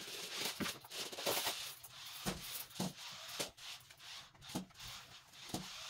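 Irregular light knocks and rubbing noises, as of objects being handled and moved about.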